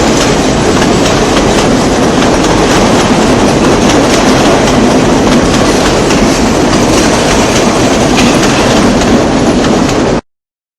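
Loud, steady running noise of a passenger train rolling past, its wheels clattering over the rail joints; it cuts off abruptly about ten seconds in.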